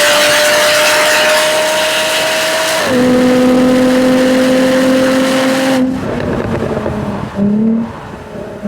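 2013 Jaguar F-Type V6 S's supercharged 3.0-litre V6 under hard acceleration, its pitch climbing, then dropping abruptly about three seconds in as it shifts up and pulls again. Near six seconds the throttle closes and the note falls away, followed by two short rev blips toward the end as it shifts down.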